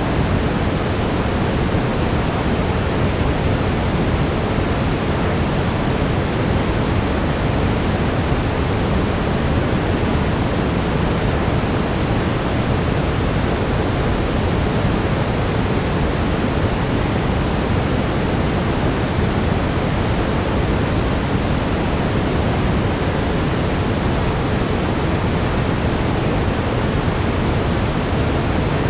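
Steady synthetic brown noise, a constant deep hiss that is heaviest in the low end and never changes in level.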